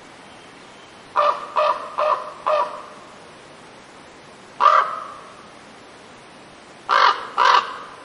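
A bird giving a series of short, loud calls: four in quick succession about a second in, one near the middle, and two more near the end.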